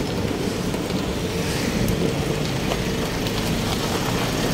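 Street traffic noise: a steady wash of passing vehicles' engines and tyres, with a low hum and a few faint clicks.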